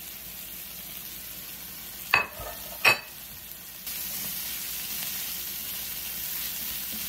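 Onion, garlic and ginger sizzling in a hot oiled skillet with mushrooms and plant-based crumbles, stirred with a spatula. Two sharp knocks come about two and three seconds in, and the sizzle grows louder about four seconds in.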